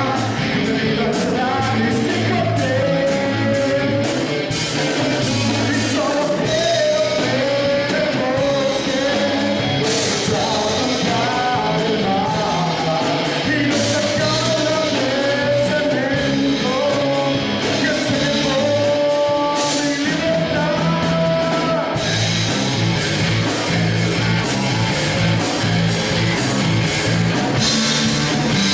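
Rock song with a singer over a band. The singing stops about two-thirds of the way through, and an instrumental passage with heavier bass and guitar follows.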